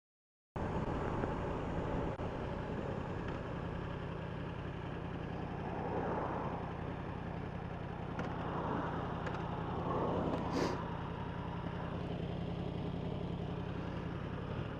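Yamaha R1 inline-four engine running steadily, starting about half a second in. Passing traffic swells by a few times, loudest about ten seconds in.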